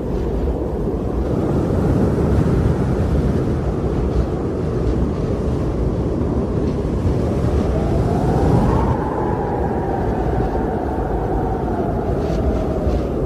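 Strong winter wind blowing in a steady low rush. About halfway through, a howling whistle rises, then slowly falls.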